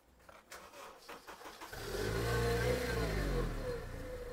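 Honda Accord's engine starting, about two seconds in: it revs up briefly, then drops back to a steady idle. A few faint clicks come before it.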